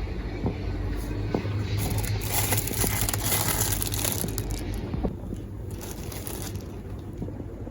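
Generator running with a steady low hum. For a few seconds in the middle, louder crinkling and crackling with scattered clicks sits over it.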